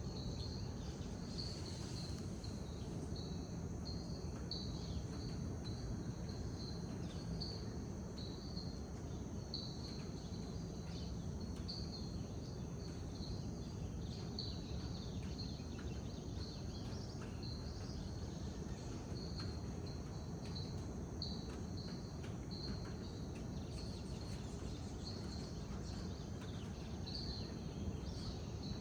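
Rainforest dawn ambience: insects calling in a steady high band, one of them in short repeated pulses about once a second. Faint bird calls come through over a low, even rumble.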